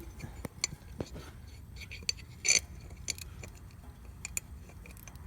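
Scattered light metal clicks and clinks, with one louder clink about two and a half seconds in: a steel stud-removal template plate and its bolts being set against an engine's cylinder head by hand.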